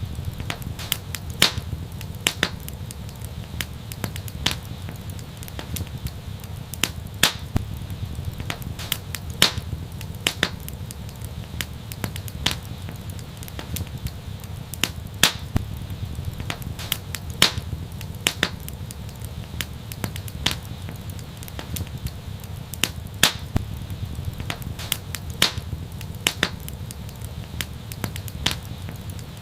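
Fire in an outdoor fireplace crackling: irregular sharp pops and snaps, several a second at times, over a steady low rumble.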